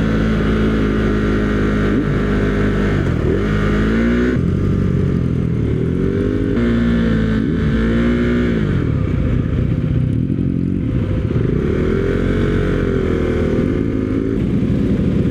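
Single-cylinder motorcycle engine of a Husqvarna Svartpilen 401 running at low speed, its pitch rising and falling several times as the throttle opens and closes, with a few sudden steps in pitch.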